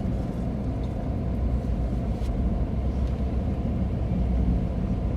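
Steady low rumble of an idling motor vehicle engine.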